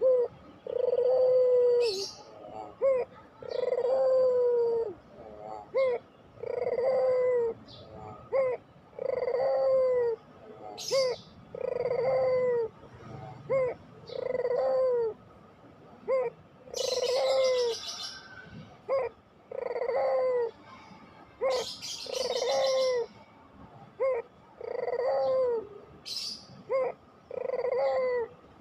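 Puter pelung, a long-voiced strain of the domestic turtle dove, cooing over and over: each phrase is a short note and then a longer drawn-out coo that falls away at the end, about one phrase every two seconds. Brief high chirps break in now and then.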